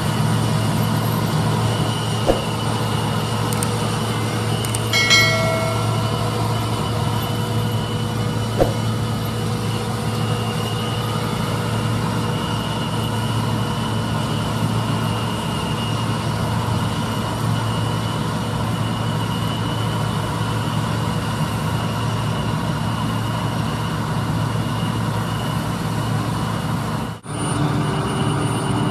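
Diesel engine of harvest machinery running steadily under load, with a short high tone about five seconds in and a couple of sharp clicks. The sound breaks off briefly near the end and resumes with a slightly different engine note.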